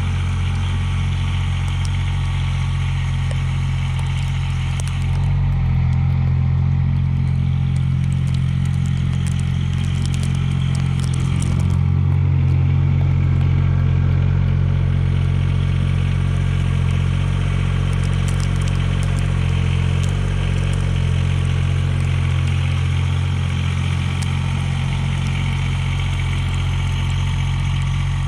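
Mahindra eMax 20S HST compact tractor's diesel engine running steadily, getting a little louder about five seconds in and again around twelve seconds before easing back.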